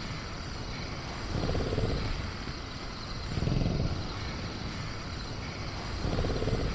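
Designed night-jungle ambience: a steady low rumbling bed with faint, steady high insect chirring, and three soft low swells spaced about two seconds apart.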